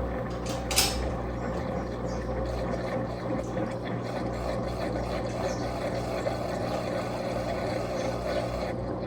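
Electrolux Turbo Capacidade Premium 15 kg top-loading washing machine running steadily with a constant motor hum, and one sharp click about a second in.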